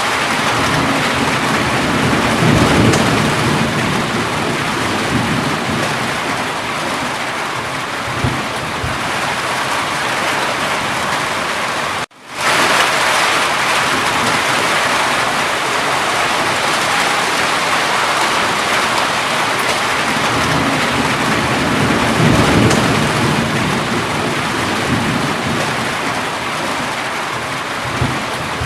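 Steady heavy rain with low rumbles of thunder, twice. About twelve seconds in, the sound cuts out for a moment and then fades back in.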